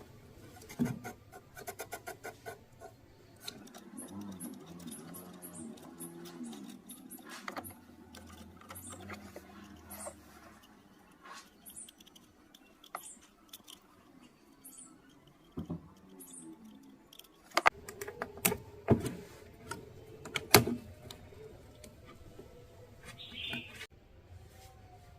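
Scattered small clicks, taps and light rattles of parts and tools being handled on a workbench, with several sharper knocks about two-thirds of the way through.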